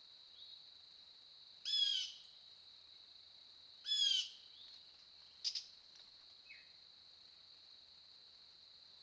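A bird calling twice, about two seconds apart, each call a short note that bends down in pitch at its end, then a brief double note a little after the middle. Behind them runs a steady high-pitched drone, picked up by a trail camera's microphone in the woods.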